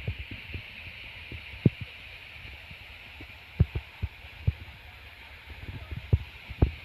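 Steady hiss of the waterfall's falling water, with irregular low thumps on the microphone.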